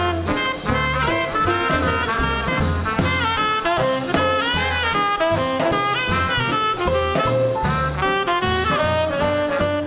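Live small-group swing jazz band playing an instrumental passage: saxophone and trumpet lines over piano, a steady bass line and drums.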